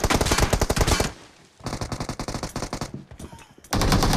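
Video-game automatic gunfire: rapid, evenly spaced shots in bursts. A loud burst cuts off about a second in, a quieter one follows, and another loud burst starts near the end.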